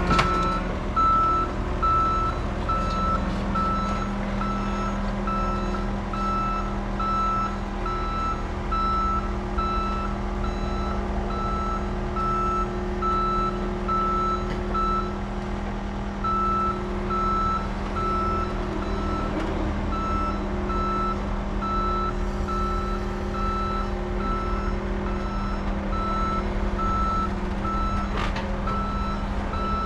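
Backup alarm beeping steadily over a running diesel engine as heavy equipment reverses, the beeps pausing briefly about halfway through.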